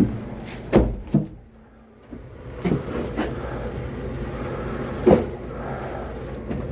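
Bundles of firewood being handled and set down: several wooden thuds and knocks, the loudest near the start and another about five seconds in, over a steady low hum.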